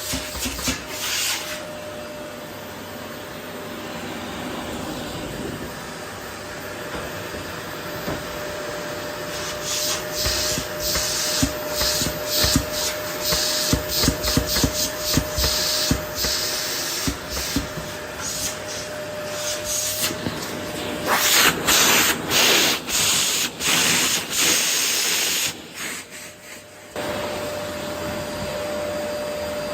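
Vacuum cleaner running with a steady motor whine while its nozzle is pushed over a wooden floor, sucking up rose petals with many short scraping, rubbing rattles. The scraping grows harsher for a few seconds near the end, dips briefly, then the plain steady hum resumes.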